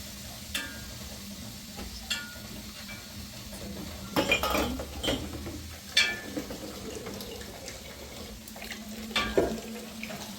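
Metal cookware and utensils clinking and knocking against each other in a few separate strikes, with a cluster of clatter about four seconds in and again near the end, over a faint steady hum.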